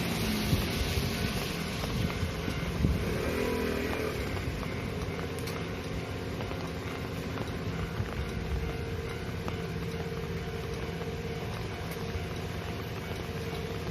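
Kintetsu Osaka Line train running through a level crossing, a steady rumble that holds level throughout, with a faint hum on top.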